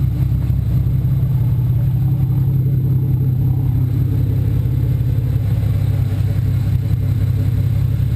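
BMW 335i's turbocharged inline-six, converted to a Precision 6265 single turbo, idling steadily through its aftermarket exhaust on its first start-up after the build.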